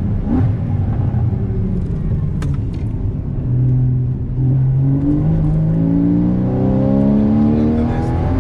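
Porsche Cayman GTS engine under way, running rougher and lower for the first few seconds, then pulling hard with its note rising steadily in pitch from about three and a half seconds in as the car accelerates through a gear.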